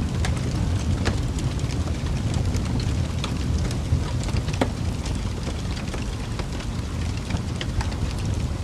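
Wood fire burning in a fireplace: a steady low rumble of flame with frequent sharp crackles and pops, a couple of louder pops about a second in and midway through.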